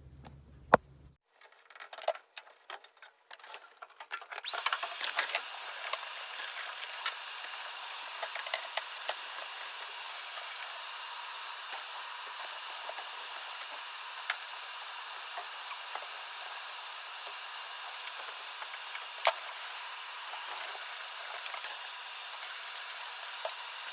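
Some clicks and knocks, then from about four seconds in a steady run of an electric tool's motor with a constant high whine and a hiss.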